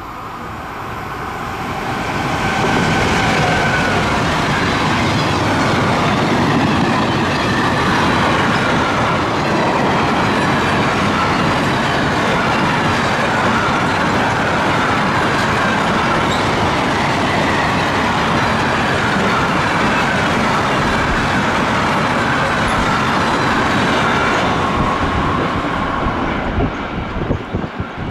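Freight train of car-carrier wagons, hauled by a Railpool class 186 electric locomotive, rolling through a sharp curve. The wheels rumble and clatter on the rails, with a wavering squeal of wheels on the curve. The sound grows louder over the first few seconds and falls away near the end as the last wagons pass.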